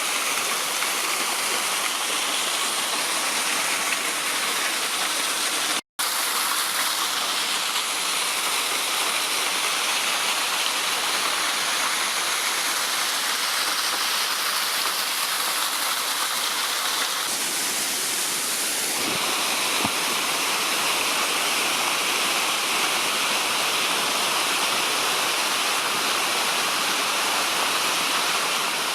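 Waterfall, a steady rush of falling water, broken by a split-second dropout about six seconds in.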